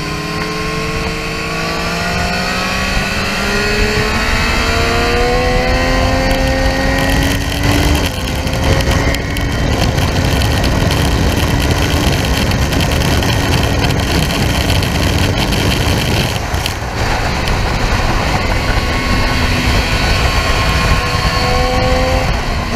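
Triumph Street Triple R's inline-three engine under hard acceleration, its note climbing steadily for about eight seconds, then held high at speed after a brief break. It drops away briefly around sixteen seconds and climbs again near the end, with heavy wind rush throughout.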